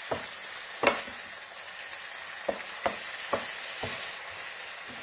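Noodles sizzling in an electric skillet while being tossed with two wooden spatulas, which knock against the pan about six times.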